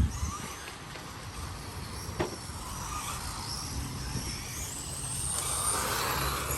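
1/10 electric RC touring car's motor and drivetrain whining as it laps, the high whine rising in pitch as it speeds up about five seconds in and dropping off near the end. A sharp click about two seconds in, over a low rumble of wind on the microphone.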